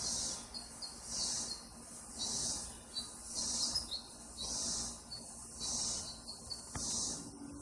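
Insects calling outdoors in an even, repeating rhythm, a high buzzing pulse about once a second, with faint short chirps between the pulses.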